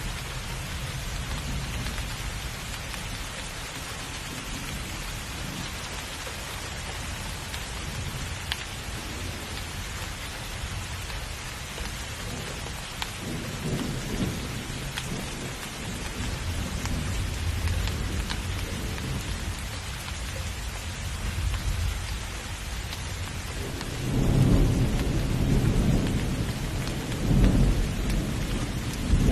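Heavy steady rain with thunder: a low rumble rolls in about halfway through, and a louder thunder roll builds near the end.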